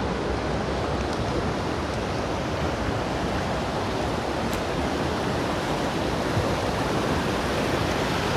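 A mountain creek's water rushing steadily over flat rock ledges and small drops, close by.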